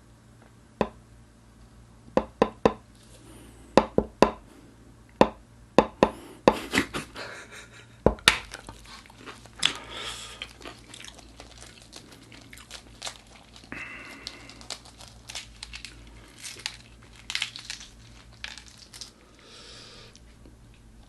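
Close-miked crunching and chewing of crispy food: a run of sharp, loud crunches in the first half, then softer chewing with crackling and rustling.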